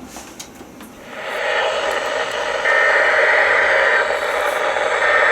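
Static hiss from a NOAA Weather Radio receiver, faint with a few clicks at first, then rising about a second in and louder from about halfway through, with a faint buzzy tone near its top.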